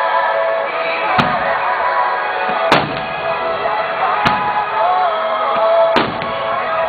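Fireworks shells bursting with sharp bangs four times, about every one and a half seconds, over continuous music with a melody.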